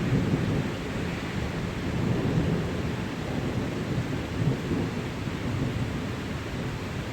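Thunderstorm: steady heavy rain with low rumbling thunder that swells and fades unevenly.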